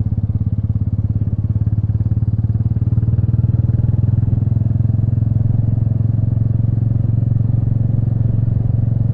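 Royal Enfield Meteor 350's single-cylinder engine running steadily under way, its exhaust pulses thudding evenly, swelling a little about three seconds in.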